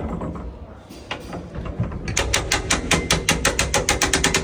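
Ratchet-and-pawl clicking from a hand-worked control in the cab of a vintage Hawthorn Tramways Trust tram: a few single clicks, then about two seconds in a fast, even run of about ten sharp clicks a second. It is a very satisfying noise.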